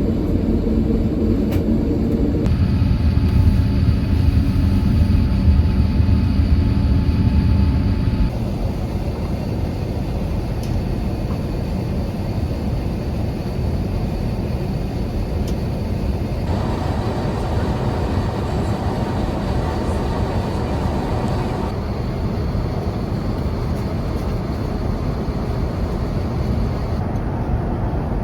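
Steady rumble of engine and air noise inside an Airbus A350-1000 airliner cabin, with a few faint steady tones. It changes abruptly in tone several times and is loudest and deepest in the first several seconds.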